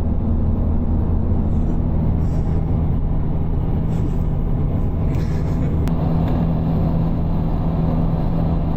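A vehicle engine running with a steady drone and road noise, as while driving at an even speed.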